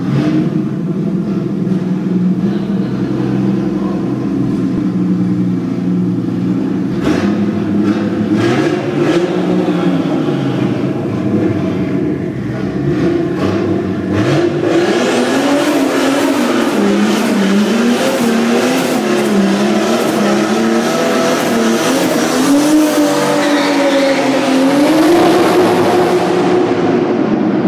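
Straight-piped, single-turbo Toyota 2JZ inline-six in a Supra, revving hard through a standing burnout. The engine note rises and falls with the throttle, with a run of sharp cracks about a quarter of the way in. A loud rush of spinning-tyre noise builds from about halfway, and the revs peak near the end before easing off.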